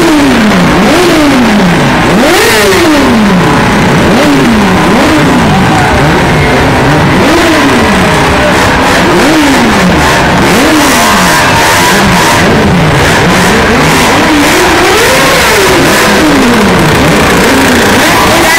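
Motorcycle engine revved hard again and again, about a dozen times, each rev climbing quickly and dropping back toward idle. Loud throughout.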